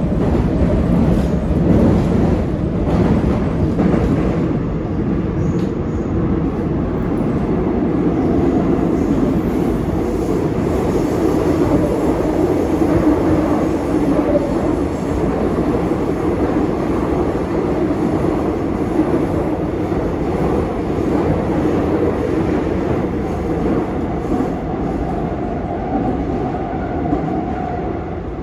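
Seoul Subway Line 7 7000-series electric train running, heard from inside the passenger car: a steady rumble of wheels on rail, with a few clicks in the first few seconds and a faint steady tone near the end.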